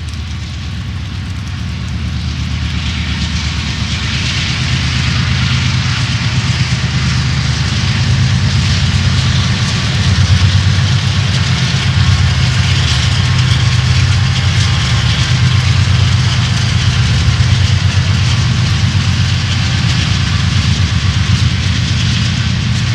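Diesel locomotives of a BNSF freight train running with a low, steady engine drone under a hiss, growing louder over the first several seconds and then holding steady.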